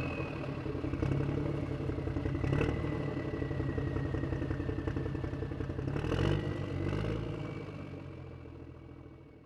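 Motor vehicle engine running as it drives off, revving up briefly about six seconds in, then fading steadily away into the distance.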